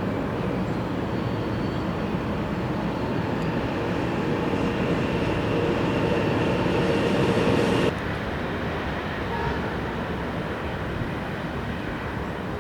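Passenger train running past on the rails, a steady noise that grows a little louder and then drops suddenly about eight seconds in to a quieter steady noise.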